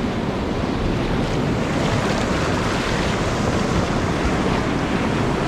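Steady rush of whitewater churning through a river hole.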